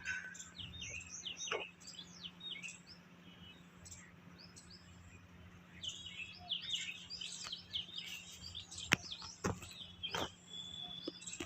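Small birds chirping: many short, high calls scattered throughout, thickest early on and again from about six to nine seconds in. There are a few sharp clicks around nine to ten seconds in, over a faint steady low hum.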